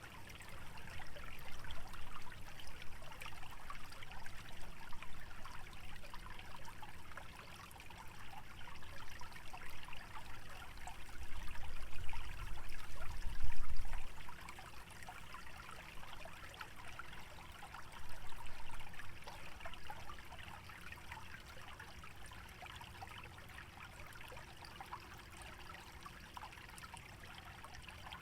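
Small wetland stream trickling steadily over its bed. Gusts of wind swell in and out, the strongest about halfway through.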